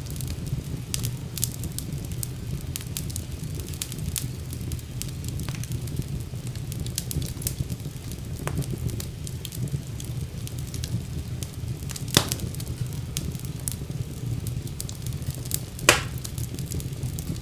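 Fire burning in a fireplace: a steady low rumble of flame with constant scattered crackling, and two louder sharp pops, one about twelve seconds in and one near the end.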